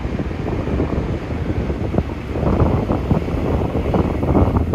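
Nankai electric train running across a concrete railway bridge: a steady rumble of wheels on rail, with irregular knocks. Wind buffets the microphone.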